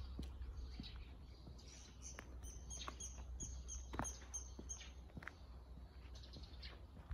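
A small bird singing a quick run of about ten high chirps, starting about two seconds in and lasting a couple of seconds. Footsteps on a paved path sound at an even pace throughout.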